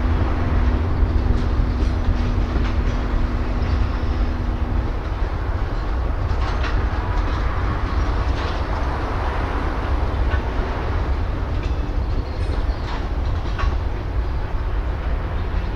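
A train moves through a rail yard: a heavy, low diesel rumble with scattered clanks and clicks of wheels and cars on the rails. A steady hum drops away about five seconds in.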